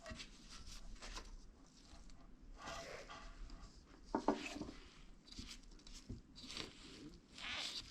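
Light handling noises of hands working at a small engine's oil filler cap and dipstick to check the oil: small clicks, scrapes and rustles, with a sharper knock about four seconds in.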